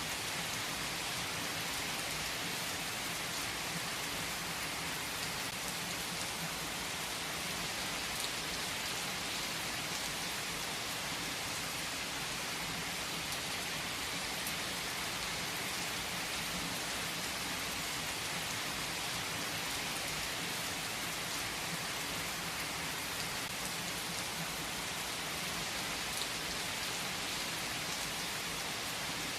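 Steady rain falling: an even hiss of dense drops with scattered individual drop ticks, unchanging throughout.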